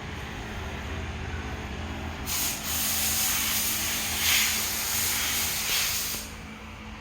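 A loud hiss that starts about two seconds in and stops sharply about four seconds later, over a steady low hum.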